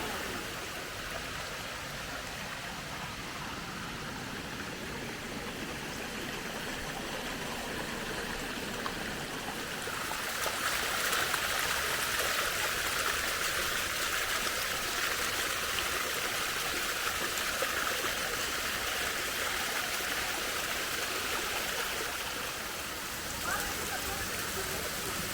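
Running water of a stream or waterfall, a steady rushing that grows louder and brighter about ten seconds in, then eases a little near the end.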